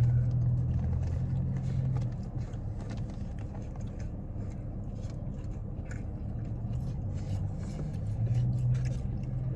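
Someone chewing and biting into a fried sambusa, with scattered small mouth clicks, over a low steady hum that is louder at the start and again near the end.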